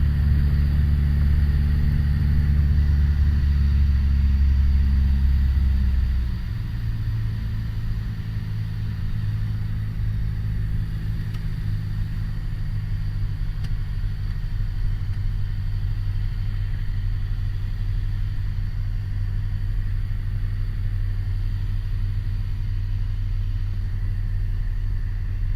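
Piper Warrior's four-cylinder Lycoming engine droning steadily in flight. About six seconds in its note drops lower and quieter as power is reduced, then holds a steady, lower drone.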